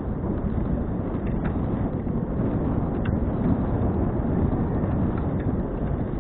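Wind buffeting the microphone of a bicycle-mounted action camera while riding: a steady low rumble with a few faint clicks from the bicycle.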